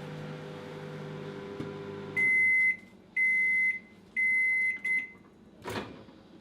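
Microwave oven running with a steady hum that stops about two seconds in, followed by three long end-of-cycle beeps about a second apart and a short fourth beep, then a single click near the end.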